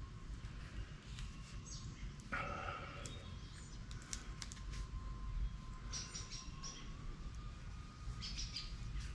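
Small birds chirping in short bursts, twice in the second half, over a low steady rumble. A brief handling noise comes about two seconds in as the heavy wheel hub is turned over on the cardboard.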